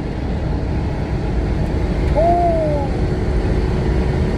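U-Haul moving truck running downhill, heard from inside the cab as a steady road and engine rumble while it gathers speed on the descent. About two seconds in a short hooting tone rises and falls, and a thin steady whine sets in after it.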